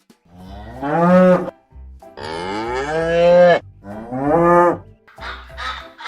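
Cow mooing three times in long calls that rise in pitch, over background music with a steady low beat. Near the end only the music is left.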